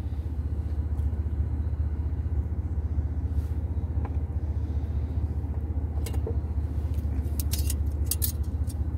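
Steady low rumble of a vehicle engine idling, heard from inside the Jeep's cabin. Short metallic clicks of kitchen tongs come about six seconds in and again near the end.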